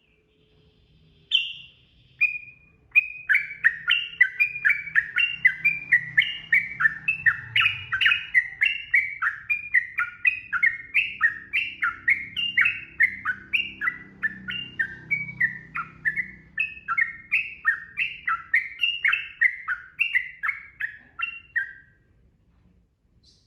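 Yellow-vented bulbul (trucukan) singing a long, fast, unbroken run of short slurred notes, about three a second: the 'ropel' rolling song. It starts with a couple of single notes and stops near the end.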